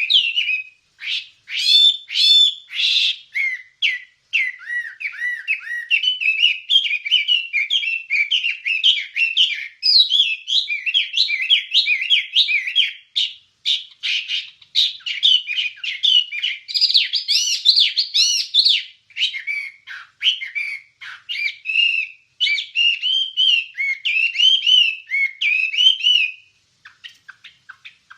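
Wambie bird singing a continuous, rapid, varied chattering song of quick chirps and warbled notes, with a brief pause near the end. It is a recording used as a 'masteran' model song for training other songbirds.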